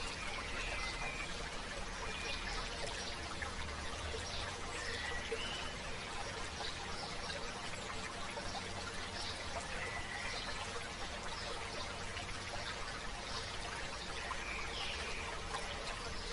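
A shallow stream or river flowing steadily over stones, with short bird chirps scattered through it.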